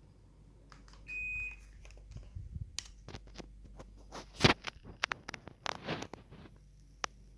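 Daikin mini split air conditioner gives one short, high beep, the kind it makes when taking a command. Then come a run of irregular clicks and knocks, the loudest about four and a half seconds in.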